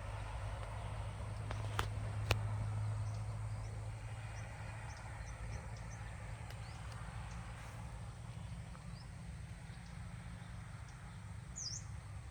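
Rural outdoor ambience: a steady low rumble, with scattered faint bird chirps, two sharp clicks about two seconds in, and a short bird call near the end.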